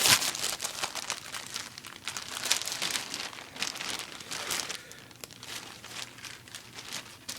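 Packaging bag crinkling and rustling as it is opened and a boonie hat is pulled out, busiest in the first few seconds and then quieter handling.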